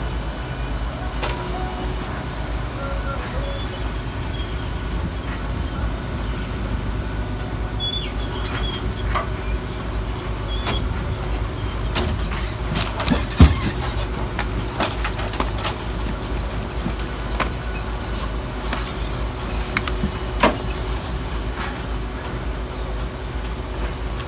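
Garbage truck engine running with a steady low rumble, with a loud metallic clank about halfway through and a smaller knock near the end.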